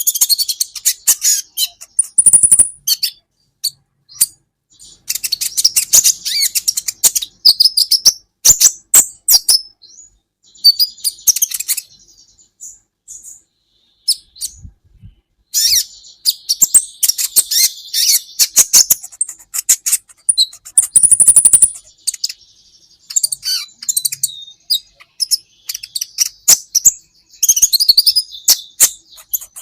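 Olive-backed sunbird (kolibri ninja) singing: bursts of rapid, high-pitched twittering and sharp chirps, broken by a lull near the middle and a couple of brief thin whistles.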